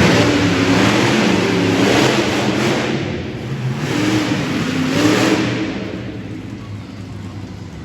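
Monster truck's V8 engine revving hard in repeated bursts, the pitch climbing and falling with each throttle stab, then easing to a lower, quieter run near the end.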